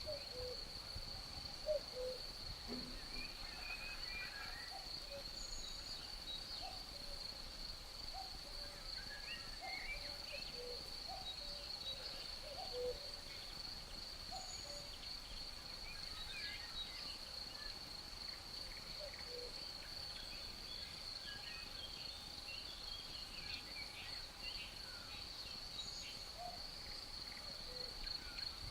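Nature ambience: a steady high-pitched insect drone, with many short low calls scattered through it and occasional higher chirps.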